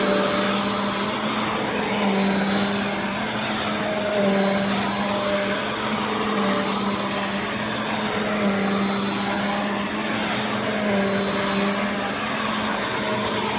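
Bissell CleanView Compact upright vacuum (model 3508) running steadily: a loud rush of air and motor hum with a thin high whine over it, its pitch shifting slightly now and then.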